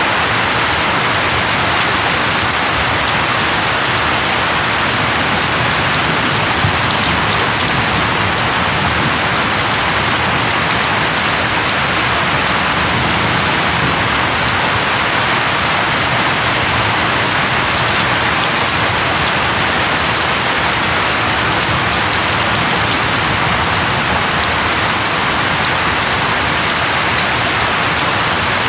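Steady rain falling, an even hiss of many drops with scattered individual raindrop patters.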